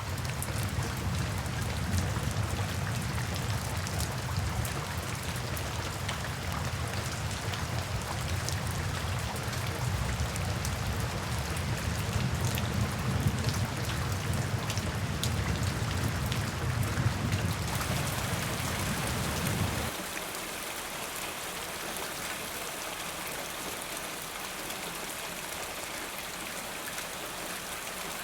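Steady rain falling, with distinct single drops landing close by. A low rumble underneath stops suddenly about two-thirds of the way in, leaving a lighter, even hiss.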